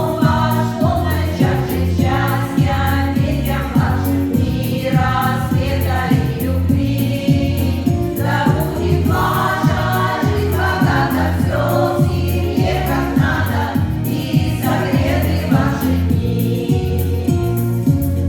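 A song sung by voices over a backing track with a steady, repeating bass line.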